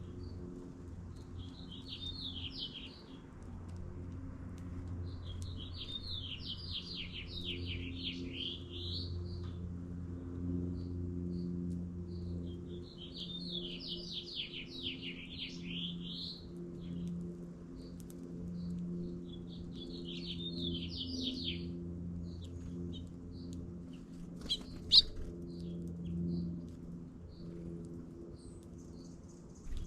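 A small songbird singing long, rapid warbled phrases, four of them with pauses between, over a steady low hum. One sharp click comes near the end.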